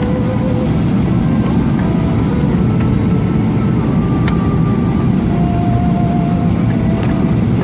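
Steady roar of engines and airflow heard inside an airliner cabin.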